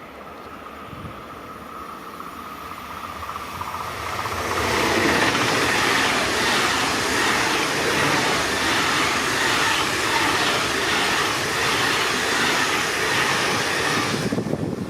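A train approaching and passing close by, its wheels and rails rattling in a regular rhythm for about ten seconds. The sound then stops suddenly near the end.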